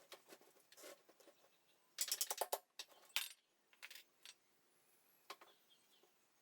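Small metal objects clinking and rattling in a series of light clicks, with a quick cluster about two seconds in and a sharper single click soon after.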